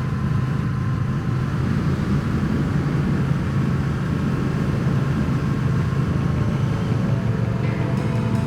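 Triumph Speed Twin 1200's parallel-twin engine running steadily while riding at road speed, with wind and road noise.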